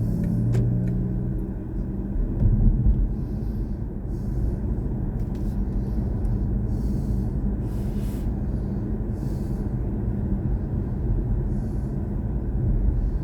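Steady low road and tyre rumble inside the cabin of a BMW i4 M50, an electric car, while it is driven along the road.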